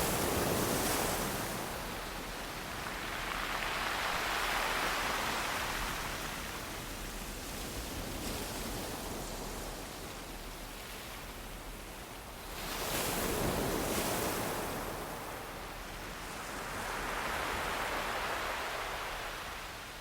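Ocean waves washing in, in slow surges of rushing noise that swell and fade every four or five seconds.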